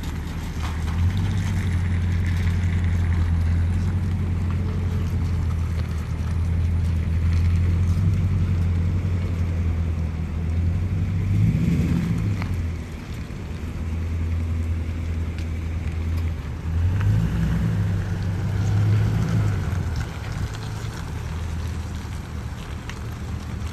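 Vehicle engine running steadily, rising in pitch briefly about halfway through and again a few seconds later as it is revved or accelerates.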